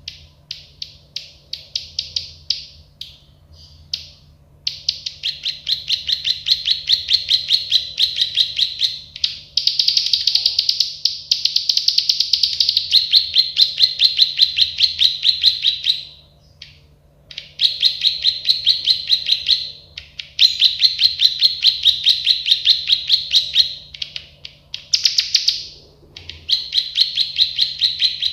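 Plain prinia (prenjak sawah) singing its rapid clicking 'klik-klik' song: fast runs of repeated sharp notes lasting a few seconds each, broken by short pauses.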